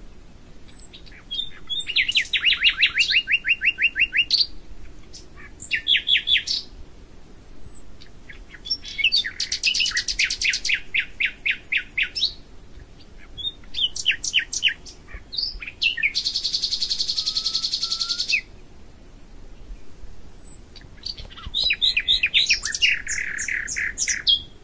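A songbird singing a series of fast trilled phrases of rapidly repeated notes, with a long buzzing roll about two-thirds of the way through.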